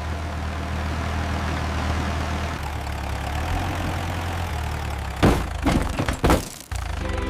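Tractor engine running with a steady low drone. About five seconds in, a quick run of loud thuds and knocks comes over about a second and a half.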